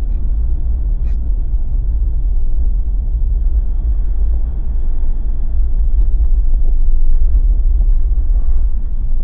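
Steady low rumble of a Jeep's road and engine noise, heard from inside the cabin while driving.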